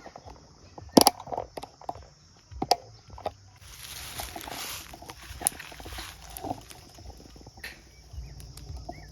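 A few sharp snaps and clicks of handling, the loudest about a second in, then a rustling hiss lasting a couple of seconds. Faint bird chirps come near the end.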